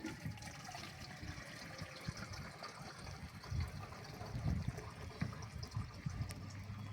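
Faint water trickling and splashing, an even hiss with a few soft low thumps.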